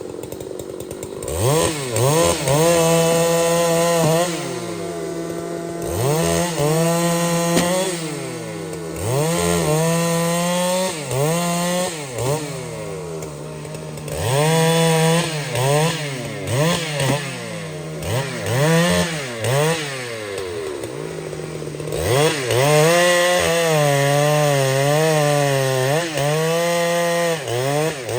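Chainsaw engine revved up hard and let drop back toward idle, over and over, about every one to two seconds, with a few longer stretches held at high speed.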